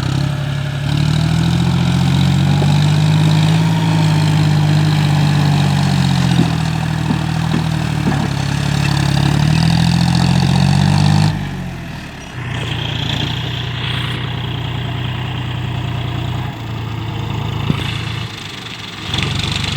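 Tractor engine hauling an overloaded sugarcane trailer, running at high revs under strain, with a brief dip in speed partway through. A little past halfway it drops to a lower, steadier speed.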